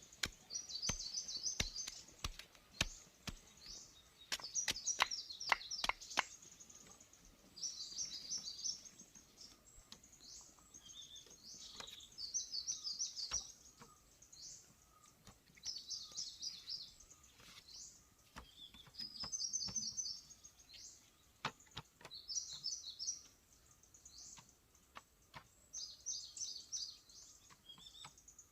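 A songbird repeats a short, fast, high-pitched phrase every two to three seconds. Sharp knocks come in quick succession during the first six seconds, with a few more later.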